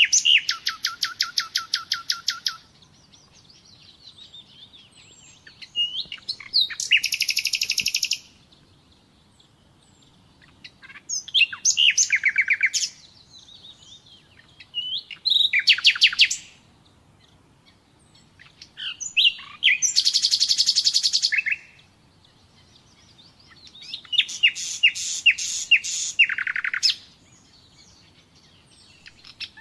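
Nightingale singing: six short phrases of rapid repeated notes and trills, each lasting one to three seconds, separated by pauses of two to three seconds.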